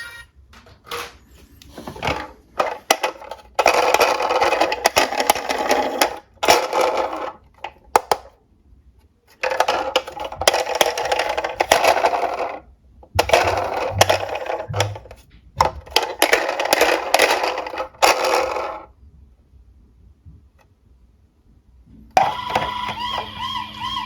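Die-cast toy cars rattling as they roll down a hard slope track, in several runs of a few seconds each, with sharp clicks between runs. Near the end a warbling electronic toy siren starts.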